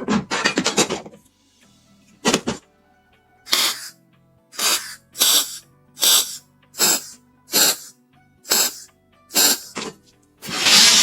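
A run of short hand-tool strokes, about eight evenly spaced under a second apart, with a longer stroke at the start. Near the end a power tool starts and runs steadily and loudly.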